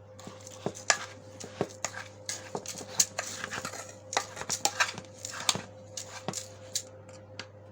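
Chicken feed being stirred and mixed by hand in a container: irregular clicks, taps and rustling of dry grains, over a faint steady hum.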